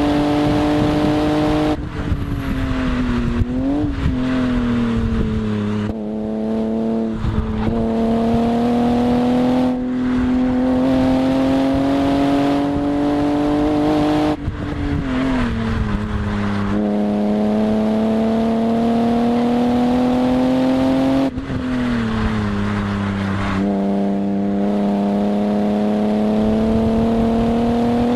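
BMW E36 M3's straight-six engine driven hard on a race track. The revs climb steadily along the straights and fall sharply three times under braking, with short rev blips as they drop, then rise again.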